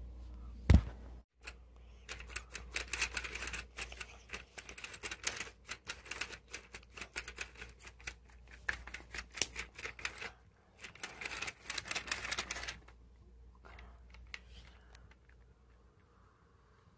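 Hands clicking and rattling hard plastic toy pieces: a sharp click about a second in, then a long run of rapid clatter that dies away about 13 seconds in.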